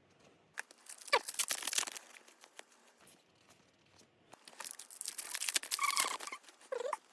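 Foil trading-card booster packs being handled and torn open, crinkling and tearing in two bursts, the first about a second in and the second longer, from about four and a half seconds in.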